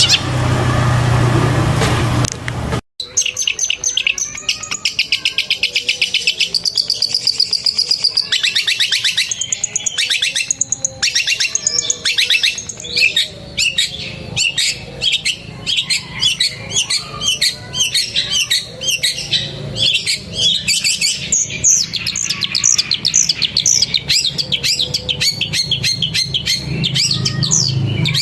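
Long-tailed shrike (Madura pentet) singing a fast, continuous run of rapid trills and chattering notes, mimicking canary song. The song starts suddenly about three seconds in, after a stretch of broad noise.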